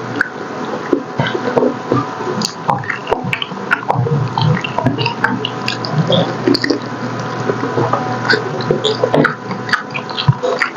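Close-miked wet chewing and lip-smacking of soft, gelatinous braised pork hock (paksiw na pata), with many quick irregular clicks and squelches.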